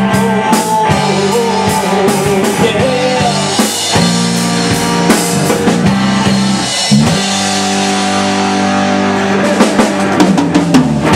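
Live rock band playing an instrumental passage: electric guitar and bass over a drum kit, with a flurry of drum hits near the end.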